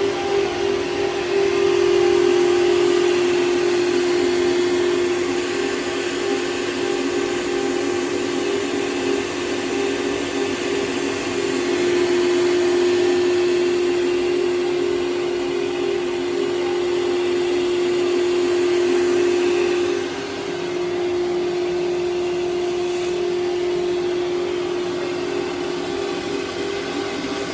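CNC router carving a wooden panel while a dust-extraction vacuum sucks up the sawdust: a steady high spindle whine over a continuous hiss of rushing air, dipping slightly about two-thirds of the way through.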